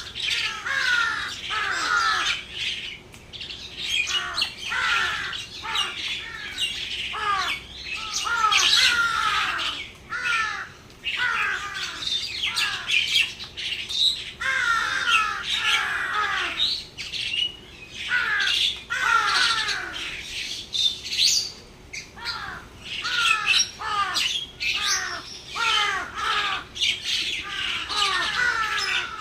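A flock of birds calling at once: many short, overlapping squawks and chirps, most of them falling in pitch, going on without a break.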